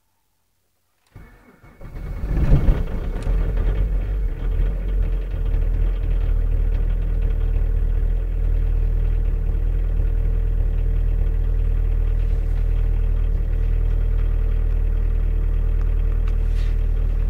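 Opel Astra G 1.7 turbodiesel (X17DTL) four-cylinder engine cold-starting: about a second in the starter cranks briefly, the engine catches with a loud surge, then within a few seconds settles into a steady idle.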